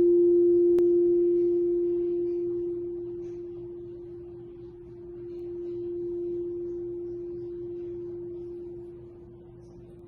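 Tibetan singing bowl ringing one steady tone as it dies away, with a faint click about a second in. Its level falls, swells once around six seconds, then fades again.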